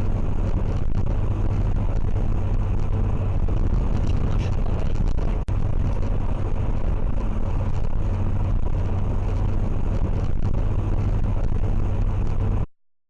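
Steady engine and road noise of a car driving, as a dashcam records it, with a strong low drone throughout. It drops out for an instant about five and a half seconds in and cuts off abruptly near the end.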